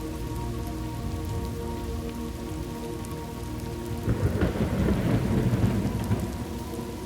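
Steady rain falling, with a roll of thunder that swells about four seconds in and rumbles for a couple of seconds before fading back into the rain.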